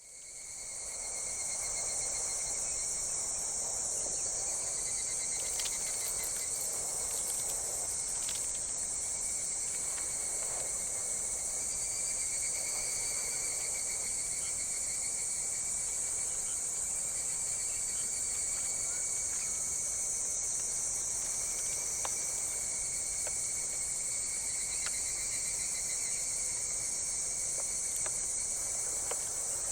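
A dense chorus of insects: a steady high-pitched chirring, with fainter pulsing trills beneath it. It fades in at the very start and then holds steady.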